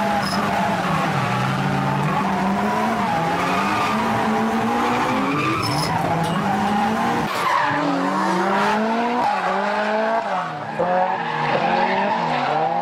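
Car engine revving hard while being driven fast and drifted through mountain-road bends, its pitch climbing and falling sharply several times in the second half as the throttle is worked between corners. Tyres squeal under it.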